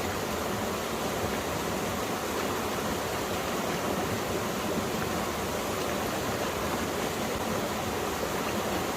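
Mountain valley stream, water running and splashing over rocks in a steady rushing flow.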